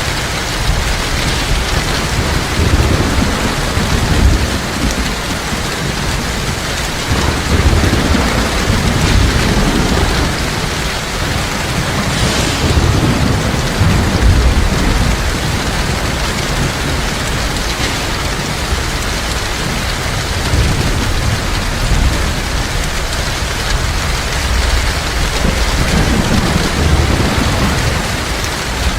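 Heavy rain falling steadily, with low thunder rolling underneath that swells and fades several times.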